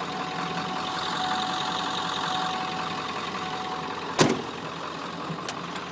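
7.3-litre Powerstroke V8 turbo diesel idling steadily. A single sharp knock just after four seconds in is the loudest sound.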